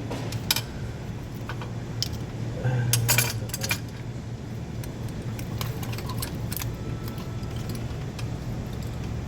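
Metal clinking and rattling: tools and small metal engine parts being handled, with a scattering of sharp clinks over a steady low hum.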